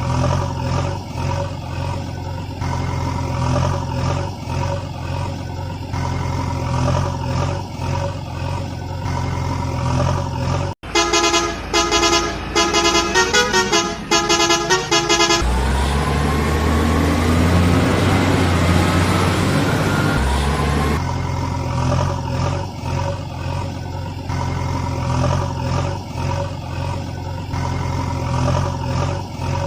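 Cartoon truck engine sound effect running in a steady low drone. About a third of the way in it cuts to a horn sounding a quick run of notes for a few seconds, then an engine revving up with a rising pitch over a heavy low hum. The steady engine drone comes back for the last third.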